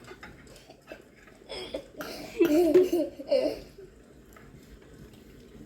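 A girl laughing and giggling for about a second in the middle, with a few faint clicks before it.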